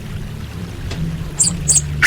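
Orange-headed thrush giving two short, high call notes about one and a half seconds in, over a low steady hum.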